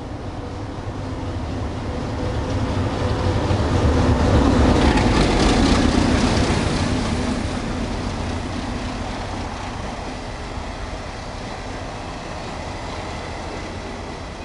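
DF11 diesel-electric locomotive approaching and passing, its engine and wheels loudest about five seconds in. Then the steady rumble and wheel noise of the passenger coaches rolling by.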